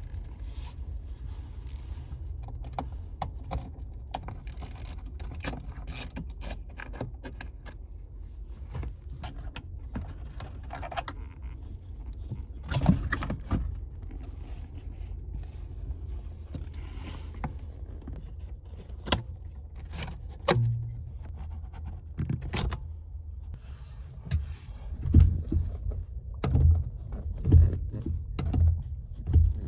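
Metal hand tools and parts clinking and clanking at irregular intervals during work on a car's brake booster, over a steady low hum. A run of louder knocks comes near the end.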